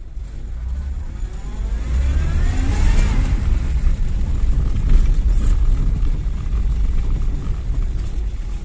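VAZ-2103 Zhiguli's four-cylinder engine pulling the car under acceleration, its note rising for a second or two and then running steadily under a heavy low rumble. The engine runs with freshly adjusted valves.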